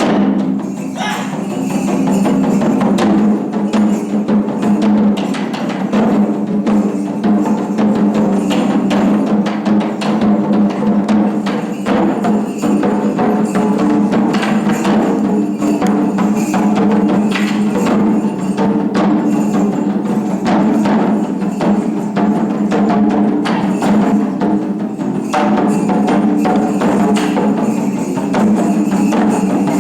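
Taiko drums played in ensemble: a dense, driving run of drum strikes mixed with sharp wooden clicks.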